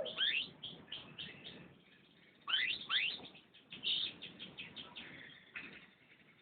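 Domestic canary singing: quick chirps and sweeping notes in two song phrases, with a short pause between them.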